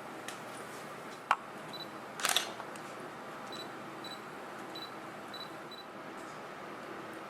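Japanese cypress (hinoki) log candle burning, with a sharp pop a little over a second in and a short burst of crackling a little after two seconds, over a steady low hiss.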